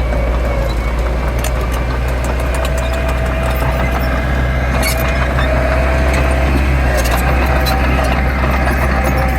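Heavy diesel engine of earthmoving machinery running steadily. A thin whine comes and goes over it, with scattered clanks.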